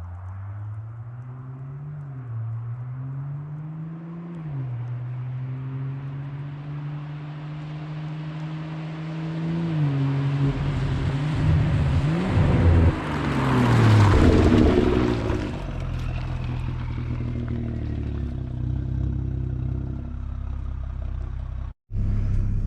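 A car engine accelerates, its pitch climbing and dropping twice at the gear changes and then rising steadily. The car then passes close by, loudest about two-thirds of the way through, and fades off.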